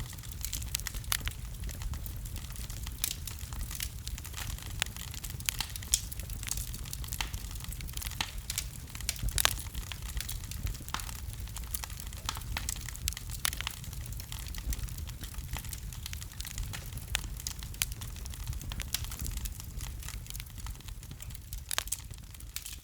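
Wood fire crackling, with irregular sharp pops over a low steady rumble of the burning; the loudest pops come about six and nine and a half seconds in.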